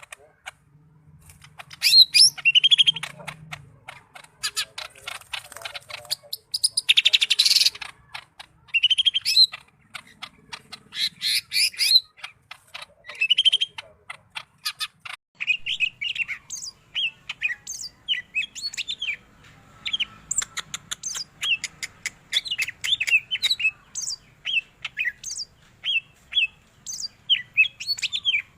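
Green leafbird (cucak ijo, Sumatran yellow-headed type) singing its varied mimicking song: rapid clicking rattles and harsh notes in the first half, then a quick run of short, sweeping chirps from about halfway through.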